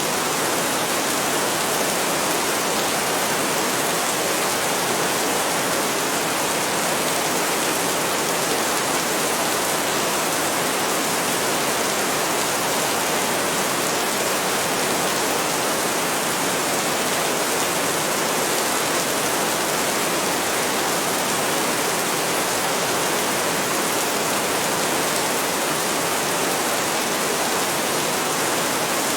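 Heavy rain falling steadily, a constant even hiss with no thunder claps.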